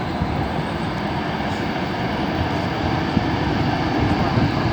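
Jet airliner coming in to land, its engines giving a steady rushing noise with a low rumble underneath.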